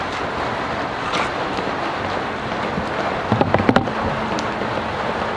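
Steady rain and wind noise on the microphone, with a short cluster of knocks about three and a half seconds in.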